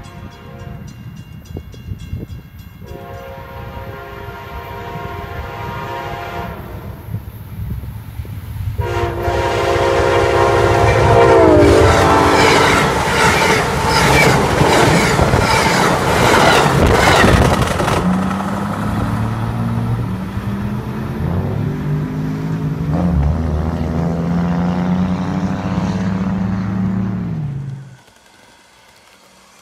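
Amtrak passenger train approaching with its horn sounding long blasts of a chord, the horn's pitch dropping as the locomotive goes by. Then the passenger cars rush past with wheels clacking rhythmically over the rail joints and a low drone, until the sound cuts off abruptly near the end.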